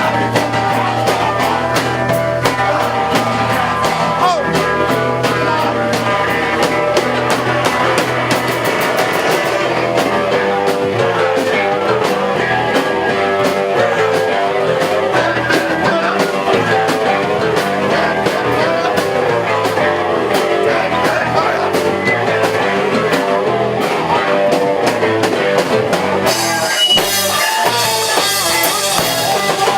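Live rock band playing: electric guitar and drum kit, with cymbals coming in loudly near the end.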